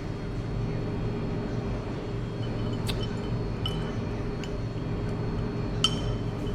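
Light clinks of cutlery against dishes, four or five spread over the second half, the sharpest near the end, over a steady low background rumble.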